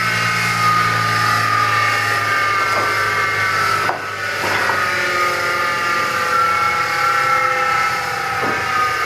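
Bench grinder winding down after being switched off: a high whine that slowly falls in pitch as the wheel coasts, with the motor hum dying away in the first few seconds. Light knocks about four seconds in and again near the end.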